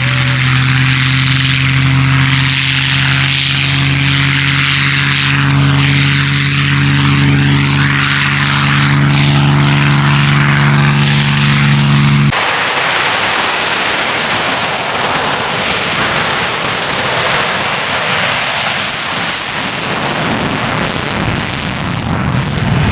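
Propeller aircraft engine running with a steady low drone. About halfway through it cuts off abruptly to a loud, even rushing noise.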